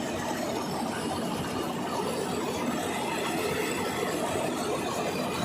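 John Deere 5405 4WD tractor's diesel engine running steadily.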